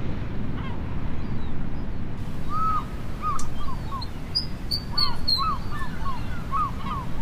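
A run of short arched bird calls, two or three a second, over a steady low rush of noise.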